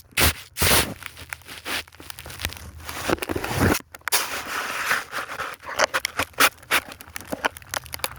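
Irregular crunching and crinkling rustles close to the microphone, a string of quick uneven scrapes and clicks, as snow and clothing rub against the phone. There is a short lull a little before halfway.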